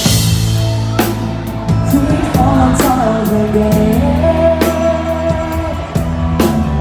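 Thai band playing the song live: drum kit and bass under a melody line, with a long held note in the middle.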